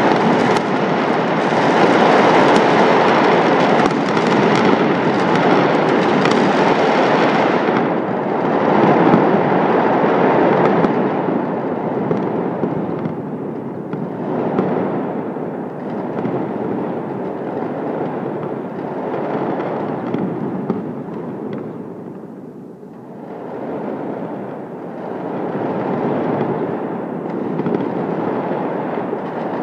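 Fireworks and firecrackers going off across the city, many overlapping bangs and crackles merging into a continuous din. It is loudest and sharpest for the first seven seconds or so, thins out, dips briefly about two-thirds of the way through, then builds again.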